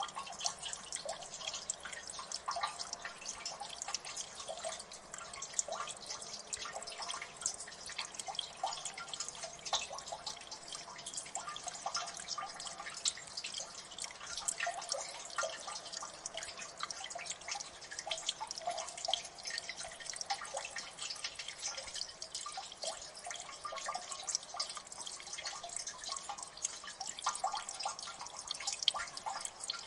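Water dripping in a gully: many drops falling continuously and overlapping, each a short plink with a ringing tone.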